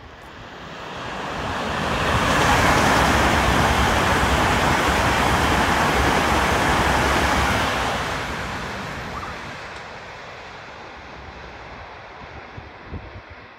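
LNER intercity express train passing through the station at speed without stopping. The rushing noise of wheels on rail and air builds over about two seconds, holds steady while the coaches go by, then fades away over the last few seconds.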